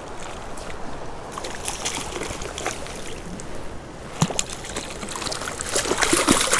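Water splashing and sloshing as a hooked rainbow trout is reeled in and brought to the net, over the steady rush of creek water. The splashes are irregular, with a sharp one about four seconds in and the loudest cluster near the end.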